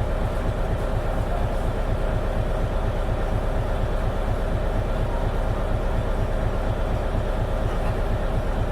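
Isuzu Erga (KL-LV280N1) city bus under way at a steady pace, heard from inside the cabin: a continuous engine and drivetrain drone with a steady whine over it.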